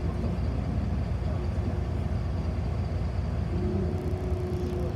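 City bus on the move, heard from inside the cabin: a steady low rumble of the drivetrain and road, with a thin steady whine joining in over the last second and a half.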